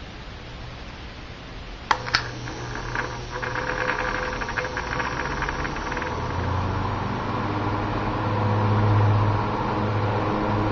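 1950s General Electric Quiet Blade table fan starting up: the switch clicks twice, a fast ticking runs for a few seconds, then the motor hum and blade whoosh build as the fan comes up to speed.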